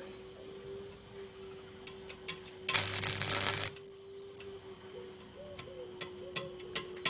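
Arc welder running a short bead on thin sheet steel at 40 amps: a crackling, spitting burst of about a second near the middle, with scattered sharp ticks before and after and a steady faint hum underneath.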